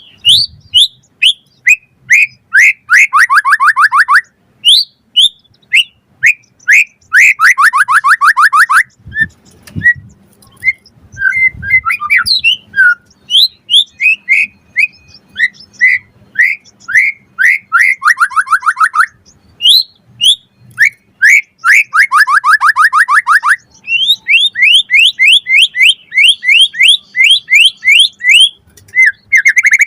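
White-rumped shama (murai batu) singing loudly: phrases of sharp whistled notes alternate with fast rattling trills, separated by short pauses.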